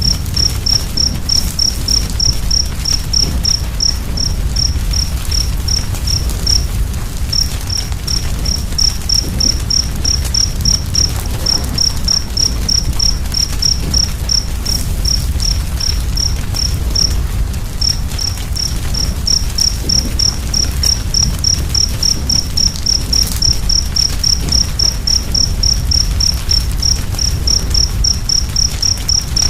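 A cricket chirping steadily, about three short high chirps a second, pausing briefly twice, over the low rumble and faint crackle of a burning fire.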